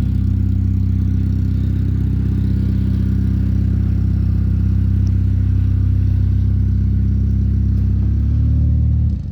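Car engine running steadily at idle close by, with a slight change in its note about eight seconds in, then cutting off abruptly at the very end.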